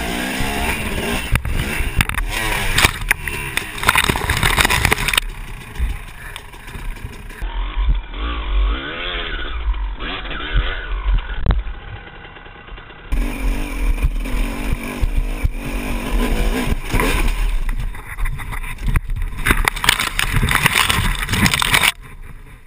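Dirt bike engines revving hard, the pitch rising and falling with the throttle, across a string of short clips that cut abruptly from one to the next.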